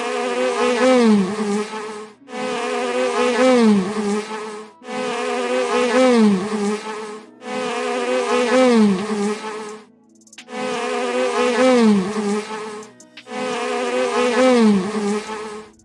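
Bee buzzing: a pitched drone with a dip in pitch partway through, looped as the same recording about every two and a half seconds with short gaps between repeats.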